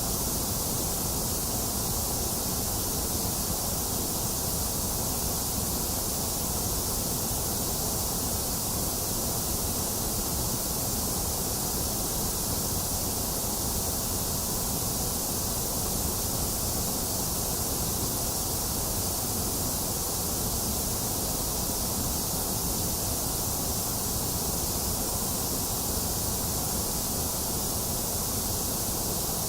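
Box fan running steadily, mixed with steady rain: an even, unchanging hiss with no thunder.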